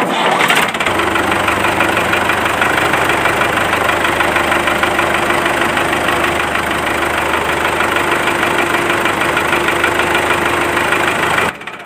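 Miniature homemade diesel engine model running steadily at idle with a fast, even knocking rhythm; the sound drops away sharply near the end.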